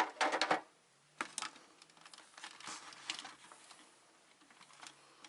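Parts of a disassembled battery backup unit being handled. A quick cluster of loud clicks and rattles comes right at the start, then lighter scattered clicks over a faint steady low hum.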